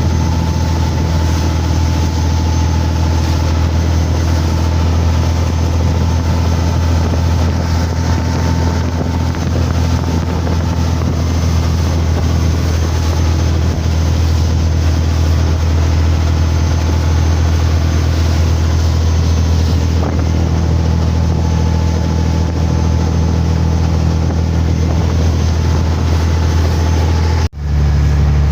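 Motorboat engine running steadily under way, with a constant hum and a hiss of rushing air or water. Near the end it cuts out for an instant and comes back at a slightly different pitch.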